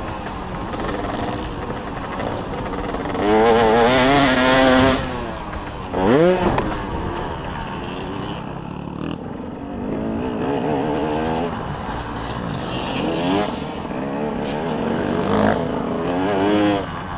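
Several motocross dirt bikes racing, their engines revving up and down in pitch as they pass. The loudest pass comes about three to five seconds in, with a quick rising rev about six seconds in.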